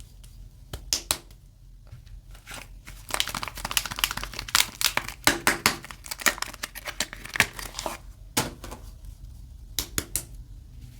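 Soap bar packaging crinkling and tearing as it is unwrapped by hand, in irregular crisp crackles that come thickest in the middle and thin out towards the end.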